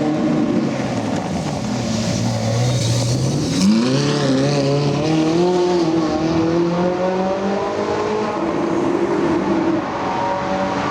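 Supercar engine accelerating hard. Its pitch sweeps up sharply about four seconds in, then keeps climbing through the gears.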